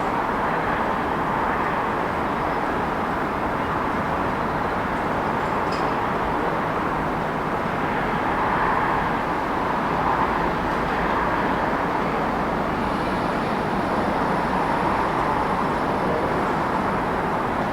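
Steady city street ambience: an unbroken wash of traffic noise. A faint high whine joins about two-thirds of the way through.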